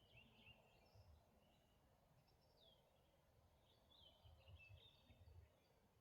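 Faint birds calling: scattered short high chirps and whistles, some sliding in pitch, over a faint background hiss, with a few soft low rumbles.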